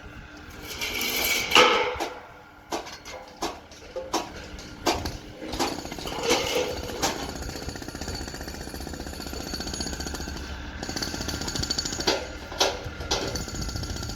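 Construction site work: scattered sharp knocks and clanks, then from about halfway a steady, fast mechanical rattle of a powered tool.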